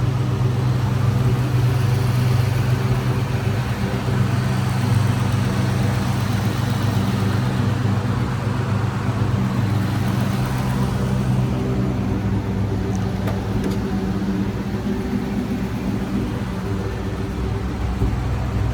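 2003 SVT Mustang Cobra's supercharged 4.6-litre V8 idling steadily after a cold start.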